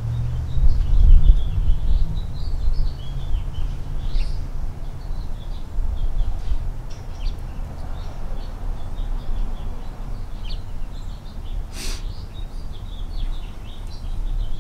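Small birds chirping repeatedly in the background over a low rumble, with one sharp click about twelve seconds in.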